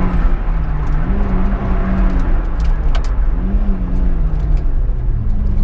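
Opel Corsa GSi rally car's engine running at low revs over a steady low rumble, its pitch rising briefly about a second in and again past the three-second mark, with a few faint clicks and rattles.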